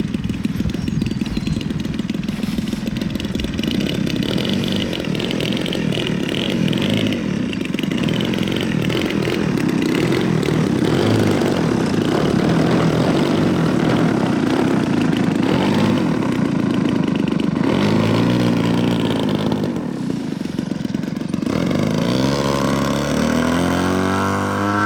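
Small combustion engine of a radio-controlled model aircraft running, fast and rough. Near the end it is throttled up and its pitch rises, as it runs up for takeoff.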